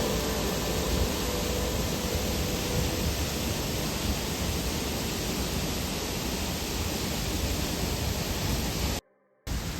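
Steady rushing roar of a waterfall, with background music fading out over the first three seconds. The sound drops out to silence for about half a second near the end.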